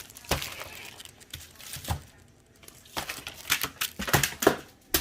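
Packs of Roman candles being handled on a table: a series of knocks, taps and crinkles of cardboard and plastic wrapping, busiest in the second half.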